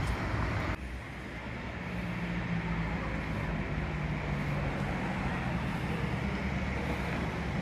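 A train at a station giving a steady low hum with a couple of held low tones. It follows a louder, broader noise that cuts off abruptly under a second in.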